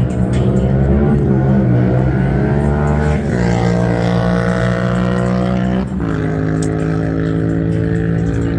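A car engine running loudly at raised revs, held steady, with the revs dropping sharply twice.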